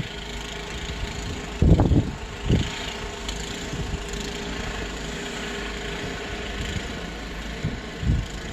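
An engine running steadily at idle, with a few loud low thumps about two seconds in and again near the end.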